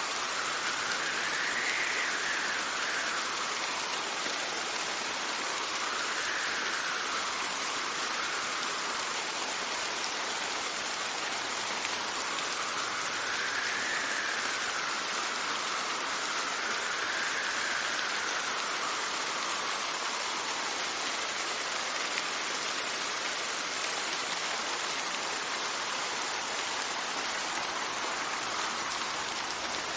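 Steady rain falling, with gusts of wind swelling and fading several times, each rising and then falling in pitch.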